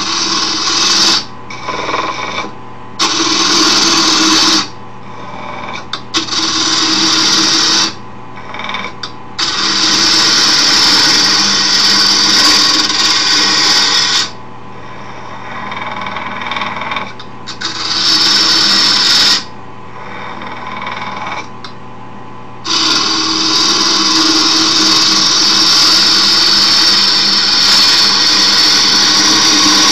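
Wood lathe motor humming steadily while a file-handle blank spins. A tool is worked against the turning wood in repeated passes that make a loud hissing scrape, several lasting a second or two and one long pass of about eight seconds near the end.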